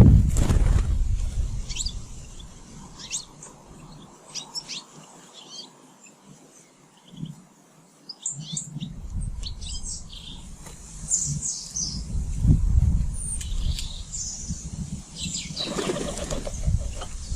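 Small garden birds giving short, high chirps at a feeder, with bursts of wings flapping that are loudest about the start and again near the end.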